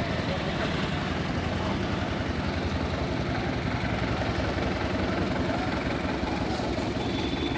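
Tractor engine running steadily at idle, a constant low, even pulsing beat with no change in speed.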